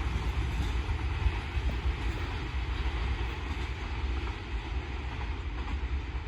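Freight train of gas tank wagons rolling past, a steady low rumble of wheels on rails.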